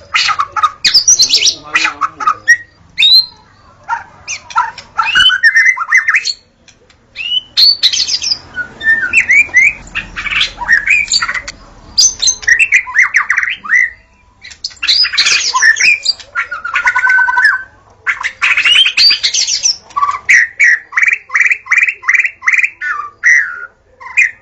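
White-rumped shama singing: a varied string of loud whistled phrases, trills and harsh notes with short pauses between them, ending in a quick series of about eight repeated notes.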